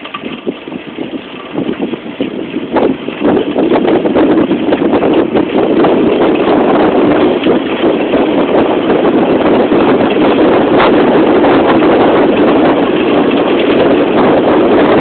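Wind buffeting the microphone of a bicycle speeding downhill. It grows louder over the first few seconds as the bike picks up speed, then holds steady and loud, with a few sharp knocks from the bike on the rough road.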